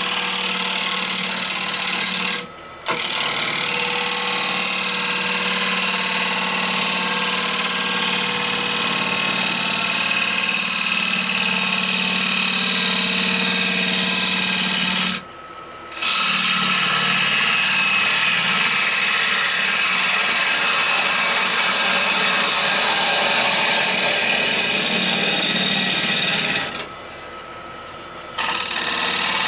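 Wood lathe running with a turning tool working the spinning rowan bowl blank, a steady hum under a dense cutting hiss. The sound drops away abruptly three times: briefly about two and a half seconds in, for about a second around the middle, and for over a second near the end.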